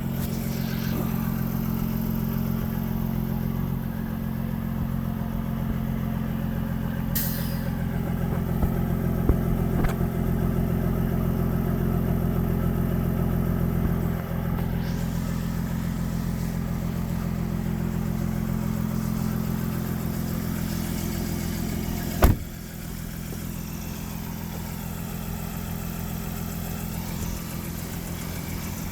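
2018 Jaguar F-Type 400's supercharged V6 running after a cold start in about 12-degree cold, its revs settling in the first second and then idling steadily. A single sharp knock about 22 seconds in.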